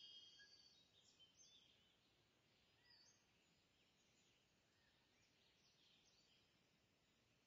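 Near silence, with faint birds chirping in short, scattered calls.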